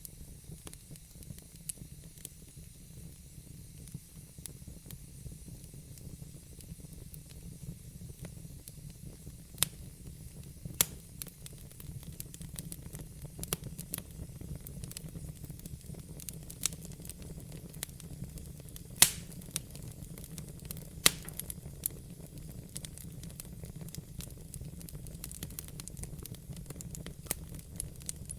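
Fire in a fireplace crackling over a steady low rumble, with sharp pops every few seconds, the loudest about ten seconds in and again near nineteen and twenty-one seconds.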